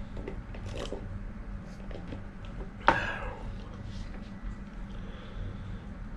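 Mouth sounds of someone eating a burger: soft, scattered chewing and squishy clicks over a low steady hum, with one sharp knock or crackle about three seconds in.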